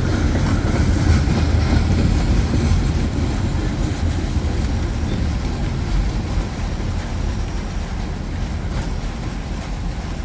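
A train rolling past on the tracks, a steady rumble of wheels and cars that slowly fades.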